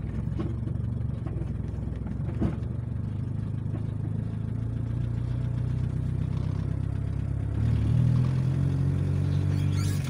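1977 Ford Corcel's four-cylinder engine running, heard from inside the cabin while driving on a dirt road, with tyre and road noise. About eight seconds in it gets louder and rises in pitch as the car picks up speed. A single knock comes about two and a half seconds in.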